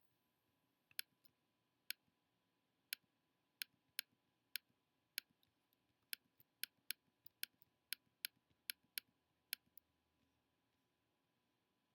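Computer mouse button clicking: about twenty single sharp clicks at uneven intervals, coming faster, about three a second, in the second half and stopping about ten seconds in.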